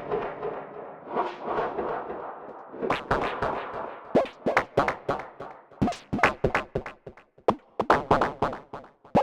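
Electronic synth sounds from the Dyad Max for Live modular synth, with no kick or bass: a soft noisy wash, then irregular clicky percussive hits from about three seconds in that grow sparser.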